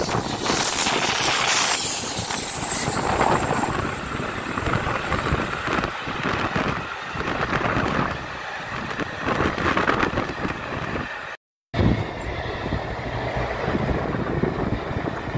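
Train passing close at speed, hauled by two steam locomotives: the noise of the locomotives and coaches' wheels running over the track. A hard cut with a moment of silence about eleven seconds in leads to a CrossCountry Voyager diesel multiple unit running by.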